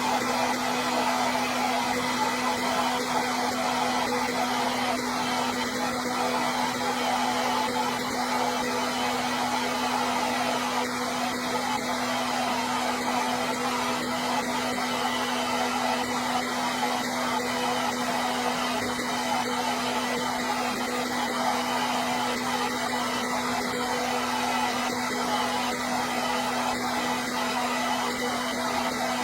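Electric hair dryer running steadily: a continuous rush of blown air over an even motor hum.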